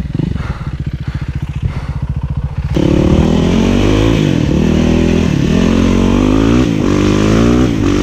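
Motorcycle engine idling with an even pulse, then about three seconds in it is opened up hard and runs loud, its pitch rising and falling repeatedly as it is revved and ridden.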